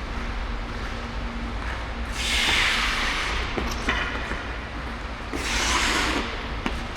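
Ice skate blades scraping across the ice twice, the first scrape about two seconds in and lasting nearly two seconds, the second shorter near the end, over a steady low rumble, with a few light clicks.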